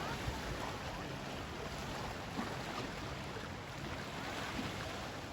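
Steady wind and sea noise on the coast, an even rushing with no distinct events.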